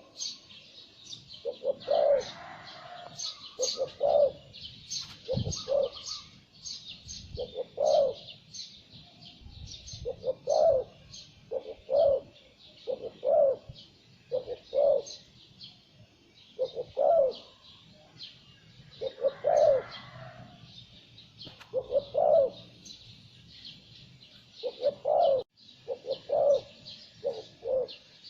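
Zebra dove cooing in short repeated phrases of quick low notes, one phrase every second or two, while small birds keep up a busy high chirping.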